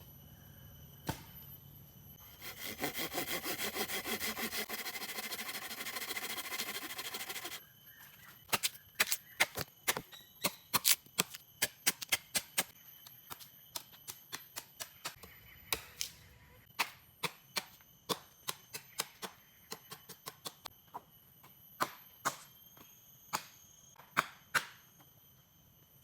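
Hand tools cutting wood: about five seconds of fast, rasping sawing, then a long run of sharp, irregular chops or knocks on wood. Insects drone steadily in the background.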